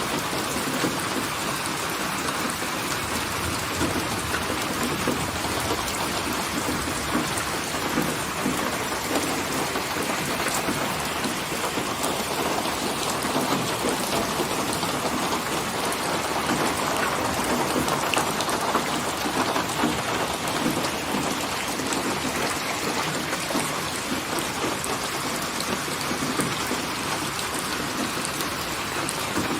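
Steady heavy rain, with a low rumble of thunder underneath that swells a little around the middle.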